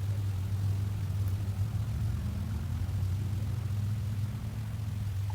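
A steady low engine hum, as of a motor idling, with no change in speed.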